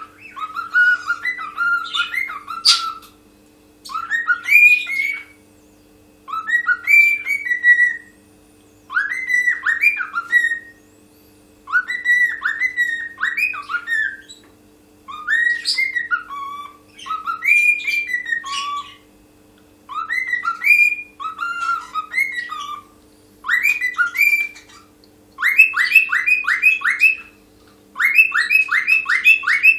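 Cockatiel singing: whistled phrases of rising and falling notes, repeated about every two and a half seconds with short pauses between, turning into quick runs of short rising notes near the end.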